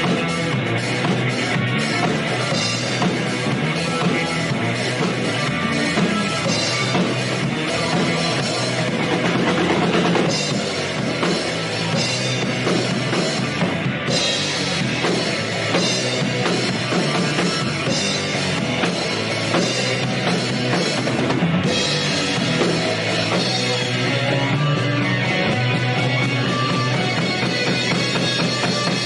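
Rock band playing live, with a full drum kit and kick drum driving a steady beat under electric guitar.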